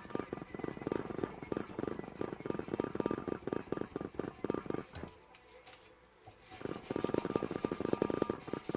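Red Line sandpaper on a backer being rubbed by hand in quick back-and-forth strokes along a hardened 80CrV2 steel knife blade, a rapid scratchy rasping. The strokes stop for a second or so about halfway, then start again.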